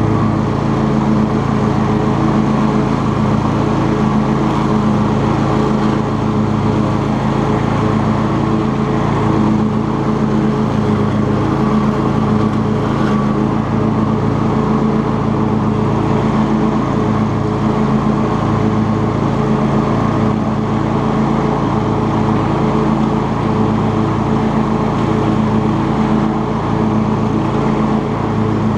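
Cub Cadet XT2 riding lawn tractor's engine running steadily at a constant speed while mowing, with a slow, even pulsing in its low drone.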